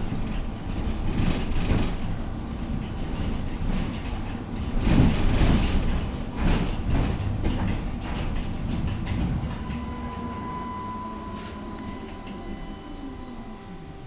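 Interior of a Tatra T5C5K tram running: wheel-on-rail rumble with knocks over the track, loudest about five seconds in. The rumble then fades as the tram slows, leaving a steady electrical whine and a tone that falls in pitch near the end.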